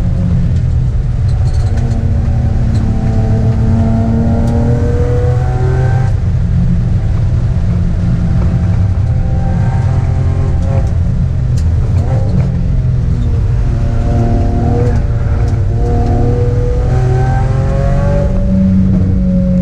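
Sports car's engine heard from inside the cabin on a hard track lap, pulling under load with its pitch rising and falling several times as the driver accelerates, shifts and lifts for corners.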